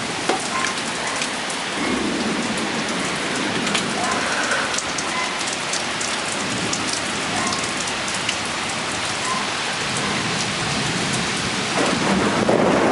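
Heavy thunderstorm rain pouring down and pattering on surfaces, thick with fine drop impacts. It swells louder and deeper about a second before the end.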